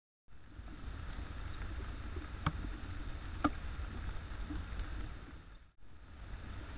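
Steady rain hiss with a low rumble through a trail camera's microphone, broken by two sharp taps about a second apart midway through. The sound cuts out briefly near the end.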